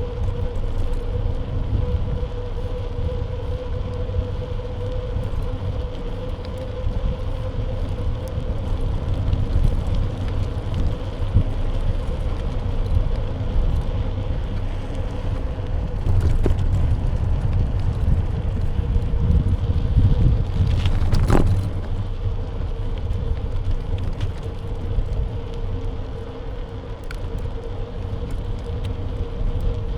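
Wind and road rumble from a bike in motion, picked up by a camera mounted on the bike's frame, with a steady faint whine underneath. About twenty-one seconds in, a single sharp click or knock stands out.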